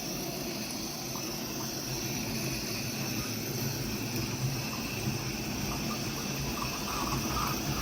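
Steady hiss of steam from an Accucraft live steam Shay locomotive.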